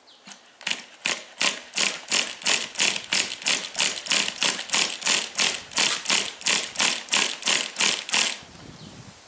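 Recoil pull-starter of a nitro RC car engine being yanked over and over in quick short strokes, about three rasping pulls a second, without the engine catching; the pulls stop abruptly near the end.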